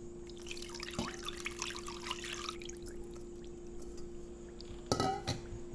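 Brine being poured into a pan for about two seconds, followed by a couple of light knocks, over a steady low hum.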